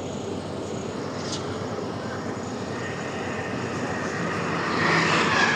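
Heavy engine noise running steadily, swelling louder near the end with a high steady whine coming in about halfway.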